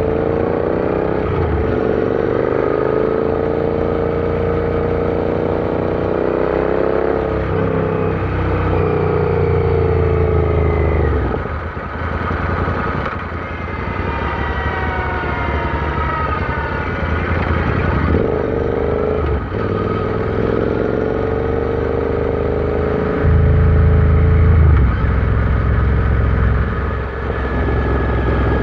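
Royal Enfield Interceptor 650's parallel-twin engine running under way, its pitch climbing and then dropping back at several gear changes before rising again.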